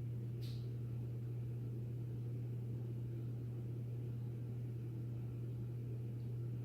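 Harbor Breeze DuBois ceiling fan running, a steady low motor hum with the rush of moving air. A brief faint tick about half a second in.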